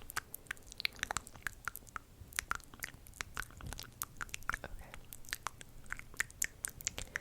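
Close-up ASMR mouth sounds: a quick, irregular run of short clicks and smacks from the lips and tongue, several a second.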